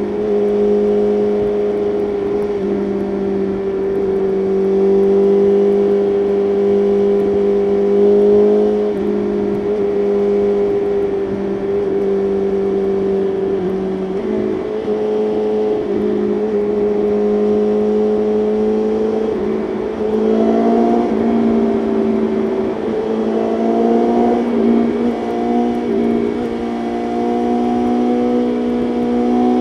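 BMW S1000RR's inline-four engine running at steady highway revs, with a brief dip in the note about halfway through and the revs stepping up a little about two-thirds of the way in, then holding.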